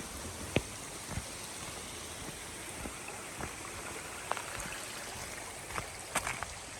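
Steady rush of a mountain stream, with scattered footsteps on the trail that come more often near the end.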